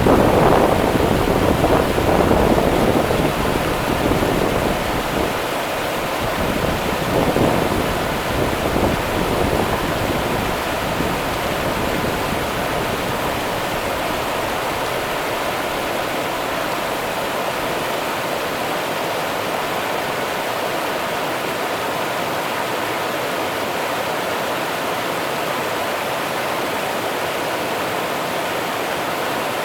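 Rio Grande river water rushing, a steady even noise. In roughly the first nine seconds uneven low gusts of wind buffet the microphone, then only the water remains.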